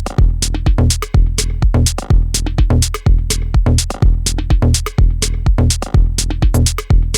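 Dub techno groove from a drum machine: a steady kick about twice a second over a deep held bass, with crisp hi-hat and percussion ticks between the beats.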